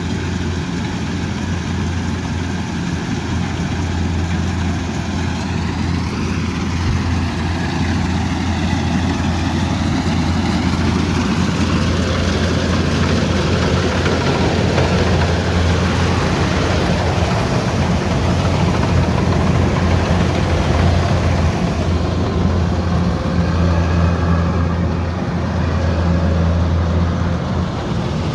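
Kubota DC108X combine harvester running steadily at working speed, a continuous low engine drone mixed with machinery noise. Its pitch shifts a little now and then.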